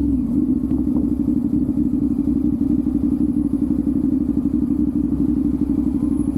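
CFmoto 450SS sport bike's parallel-twin engine running while riding, its note turning from smooth to a rougher, rapidly pulsing sound just after the start and then holding steady.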